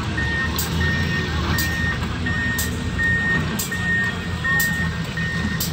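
Backup alarm on heavy equipment beeping steadily, a high single-tone beep about every 0.7 s, over a diesel engine running. Short hissy clicks come about once a second.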